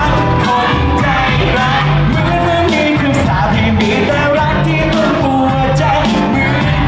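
A male singer performs a Thai pop ballad live with full band backing, loud and continuous.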